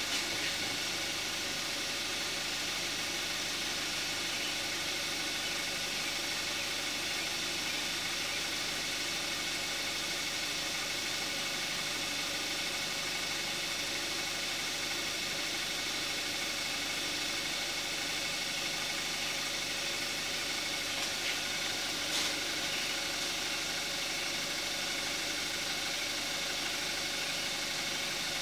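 2014 Kia Forte5's 2.0 GDI direct-injection four-cylinder engine, at about 41,000 miles, idling steadily with the hood closed. A couple of faint ticks come about three quarters of the way through.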